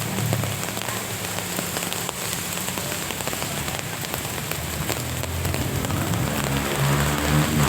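Steady rain falling, with many small drop ticks throughout. A low engine hum of a passing motor vehicle fades in the first moment, and another engine hum rises near the end.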